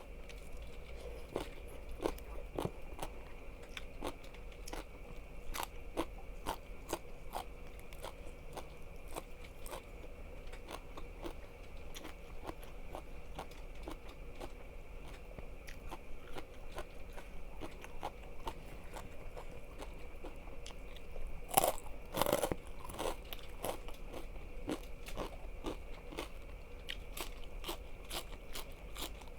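Close-miked eating: a person biting and chewing crunchy food, making a stream of irregular crisp crunches. About three-quarters of the way through comes a louder burst of crunching. A faint steady hum runs underneath.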